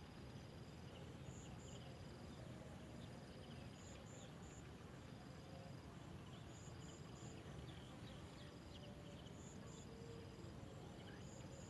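Faint insects chirping over a low hiss: a high double chirp that repeats every second or two, and a thin, steady high note that comes and goes.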